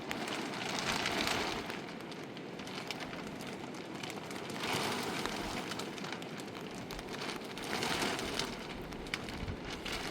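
Steady rain falling, a hiss full of small drop ticks that swells louder three times, about one, five and eight seconds in.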